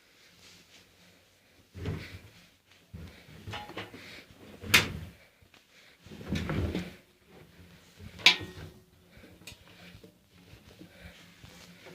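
AEG washing machine at work on a 40° coloured wash: irregular swishing surges over a faint steady hum, with two sharp clacks, about five and eight seconds in.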